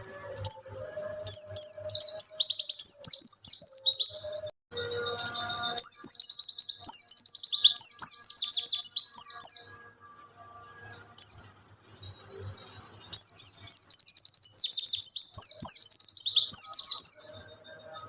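A white-eye (pleci) singing in three long bouts of rapid, high twittering and warbling, with short pauses between the bouts.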